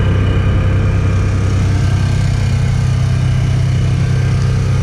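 A vehicle's engine running steadily, with a deep, even hum, heard from on board while driving slowly.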